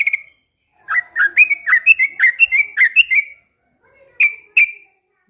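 Yellow-vented bulbul singing: a quick bubbly run of short, rising and falling whistled notes, about four a second, followed by two separate sharp notes near the end.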